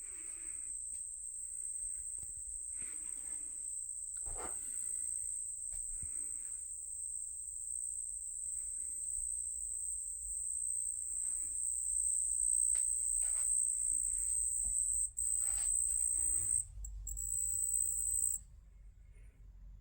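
Cricket trilling in one continuous high-pitched buzz, which breaks off briefly twice near the end and then stops. The keeper thinks it is a collared ground cricket. Faint rustles and clicks sound underneath.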